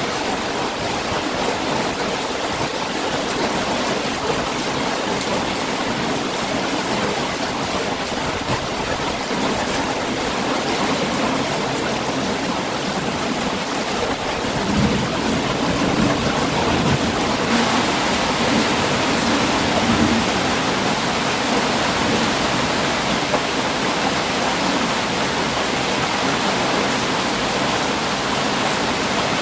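Heavy rain pouring steadily. About halfway through it grows slightly louder and brighter, with a low rumble underneath for a few seconds.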